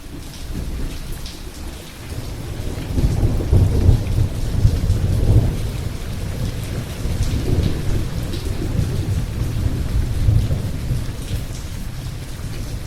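Thunderstorm: steady heavy rain with long rolling thunder that builds about three seconds in and rumbles on, with a second swell near the end.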